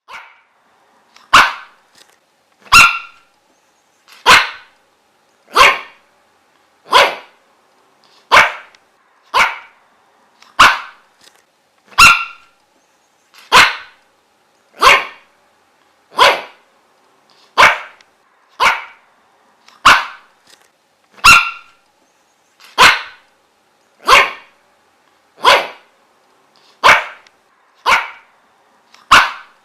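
A dog barking in single, evenly spaced barks, about one every second and a half, with silence between.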